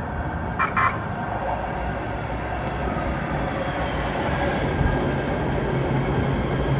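Los Angeles Metro rail train running, a steady rumble that grows louder over the last couple of seconds, with two short high blips about half a second in.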